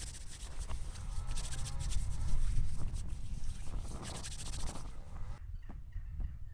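A farm animal gives one wavering call about a second in, over a steady low rumble and scattered rustling clicks. Near the end the background changes abruptly.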